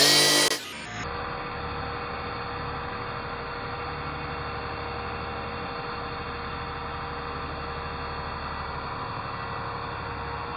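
Electric RC truck's brushless motor whining as it revs, rising in pitch, then cutting off abruptly under a second in. A steady low hum follows for the rest.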